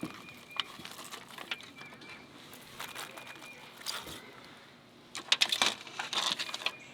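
Knife chopping a bell pepper: scattered taps, then a quick run of chops about five seconds in.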